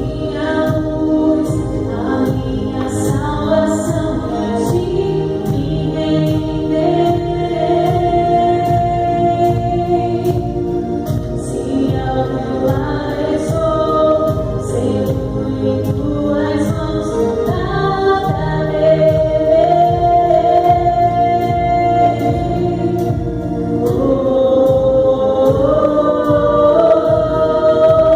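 Gospel worship song sung by a group of voices, with band accompaniment and a steady percussion beat.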